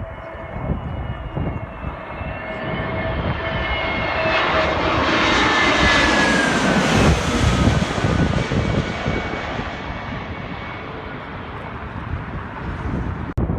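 Airliner passing close by. The engine noise builds to a peak about six or seven seconds in, with whining tones that drop in pitch as it goes past, then fades away.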